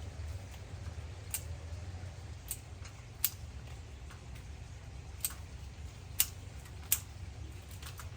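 Hand pruning shears snipping twigs: about seven sharp, irregular clicks spread over several seconds, above a steady low rumble.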